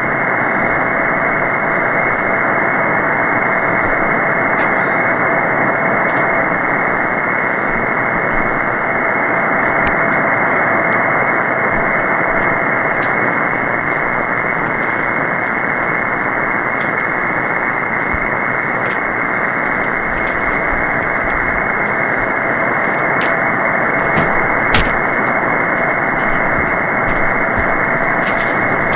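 Shortwave SSB receiver hiss on the 20-metre band between transmissions: a steady rush of band noise, squeezed into a narrow voice passband. A faint steady whistle of a carrier sits in the hiss, fading out midway and coming back later. There are a few faint static clicks.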